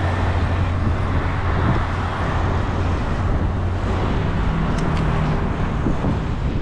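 Road traffic noise: motor vehicle engines running with a steady low hum and tyre and road noise, with a second engine tone rising into it for about a second just past the middle.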